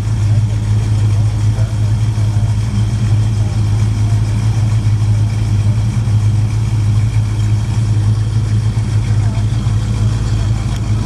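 A car engine idling steadily, a constant low hum with no revving, with faint voices in the background.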